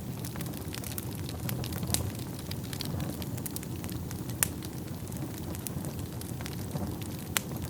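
Wood fire burning in a fireplace: a steady low rumble of flames with frequent sharp crackles and pops, two louder pops about 2 and 4.5 seconds in and another near the end.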